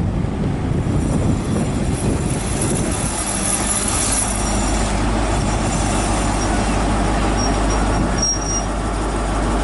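HST (InterCity 125) diesel train pulling into the platform with a steady low rumble from its engine and wheels. Short high brake squeals come near the end.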